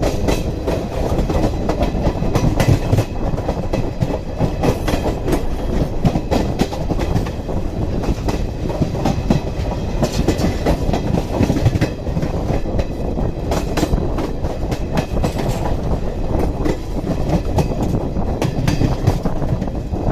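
Steady rumble with frequent clicks and rattles, the running noise of a moving vehicle.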